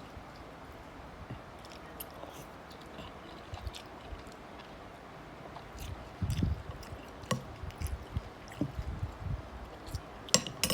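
Someone eating a bowl of Thai boat noodles: quiet at first, then chewing with short sharp clicks from about six seconds in.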